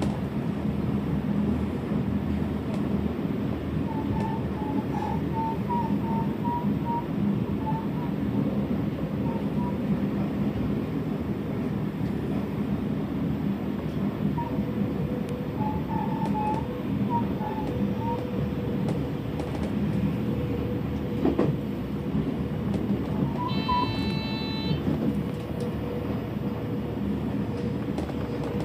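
Electric rapid train running at speed, heard from behind the driver's cab: a steady noise of wheels on rails, with short faint squeals here and there. A brief pitched tone sounds once near the end.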